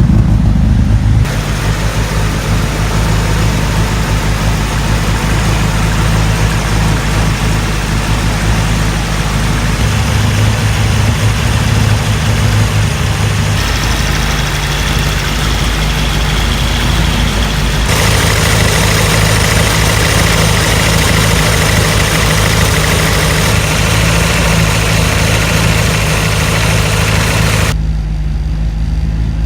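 Honda four-cylinder engine idling steadily through a fart-can muffler after a cold start.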